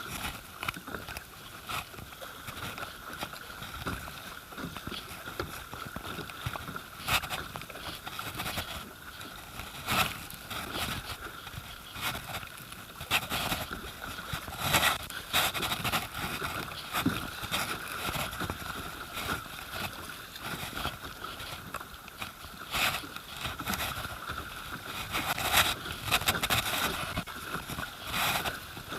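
River water sloshing and gurgling around a kayak, with frequent short, sharp splashes at irregular intervals.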